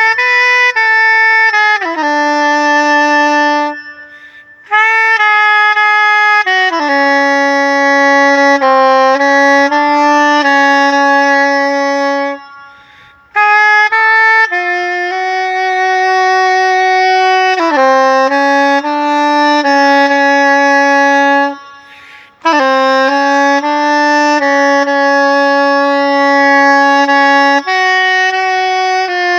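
New Selmer soprano saxophone playing a slow opera melody solo: long held notes moving stepwise, with short breath pauses about 4, 13 and 22 seconds in.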